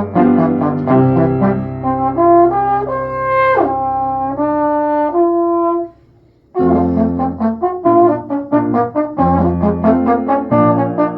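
Music from what sounds like a brass ensemble, several instruments playing chords and moving note lines together. The playing stops for about half a second just past the middle, then comes back in.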